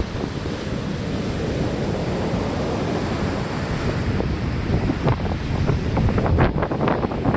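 Rough sea waves breaking and washing in strong wind, with wind buffeting the microphone. The crash and splash of surf grows busier in the second half.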